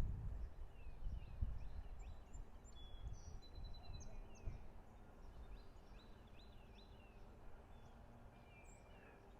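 Small birds chirping repeatedly, short high chirps and quick sweeps, over a low rumble that fades away over the first few seconds.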